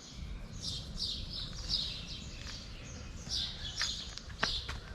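Small birds chirping over and over, quick falling chirps overlapping one another, with a few sharp clicks near the end.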